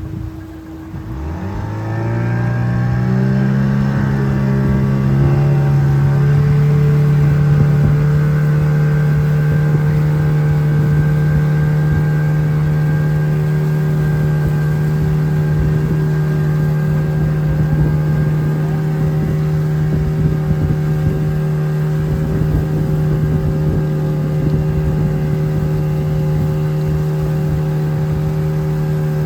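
Boat's outboard motor revving up over the first few seconds, then running at a steady cruising speed.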